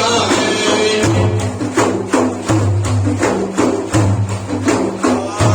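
Instrumental break between sung verses: frame drums beat a steady rhythm of about three strikes a second over sustained accompanying tones, with no singing.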